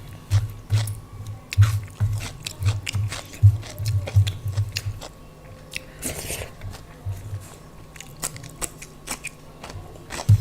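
Close-miked eating of daal and rice with raw salad: a steady run of chewing, with sharp mouth clicks and one short crunchy smear about six seconds in.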